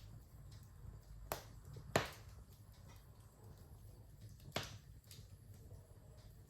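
Wood fire crackling: a few sharp pops, the loudest about two seconds in, over a low steady rumble.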